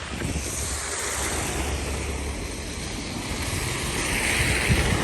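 Steady rushing noise of wind buffeting the microphone in a snowstorm, with a low rumble, swelling near the end.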